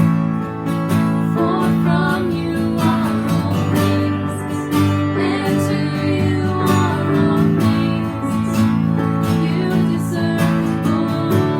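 Acoustic guitar music: chords strummed in a steady rhythm.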